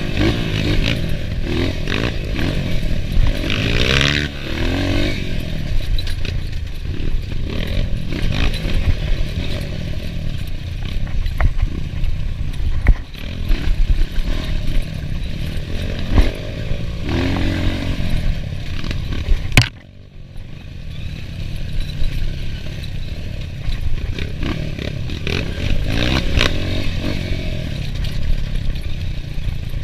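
Enduro dirt bike engine running hard, its pitch rising and falling as the throttle opens and closes, with clatter and knocks from the bike over rough ground. About twenty seconds in there is a sharp crack, and the engine goes quieter for a moment before picking up again.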